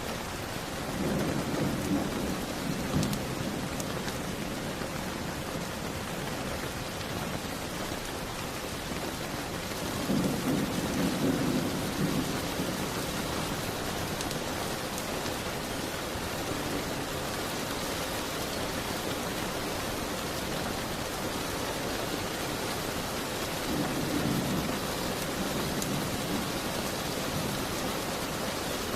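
Steady rain, with low rumbles of distant thunder swelling three times: about a second in, around ten seconds in, and near the end.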